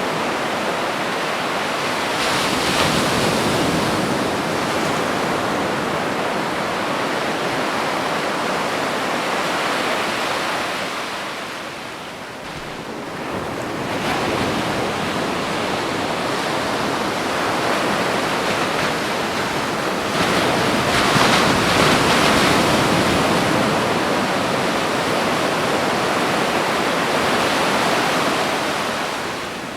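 Ocean waves breaking and washing up on a beach: a continuous rush that swells and eases, with a lull about twelve seconds in and another near the end.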